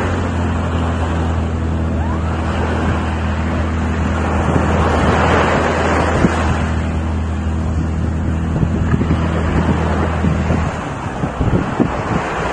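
A light aircraft's piston engine running steadily at low revs, cutting off abruptly about ten and a half seconds in, with wind buffeting the microphone.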